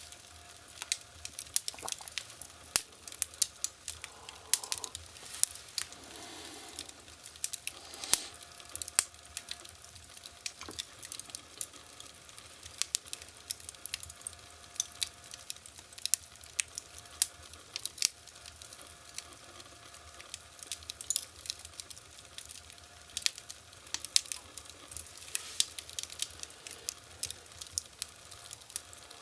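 Wood fire crackling in a fireplace: irregular sharp pops and snaps, several a second, over a low hiss.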